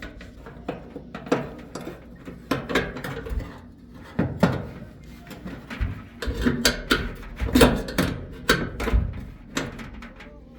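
Irregular knocks, clicks and clatter of parts being handled inside an open dryer cabinet while the loose drive belt is fitted, busiest through the middle.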